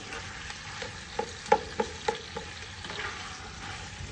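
Chicken pieces and sliced onion sizzling in oil in a stone-coated pot while a spoon stirs them, with a run of about six light knocks of the spoon against the pot between one and two and a half seconds in.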